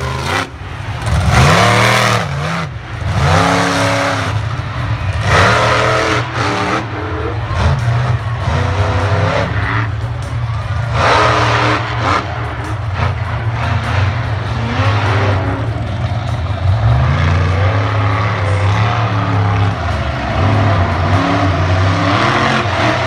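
Monster truck engines revving hard over and over, the pitch climbing and dropping every second or two with no break.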